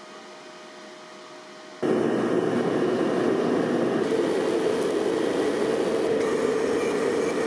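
A steady rushing machine noise comes on abruptly about two seconds in, much louder than the quieter steady hum before it, and runs on evenly without rhythm.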